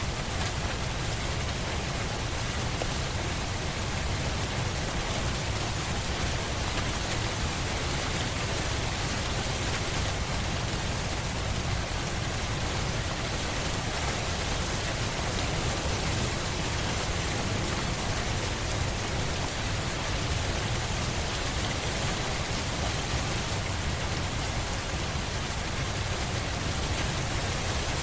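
Steady rain, an even hiss of many drops with a low rumble underneath and no single drop or thunderclap standing out.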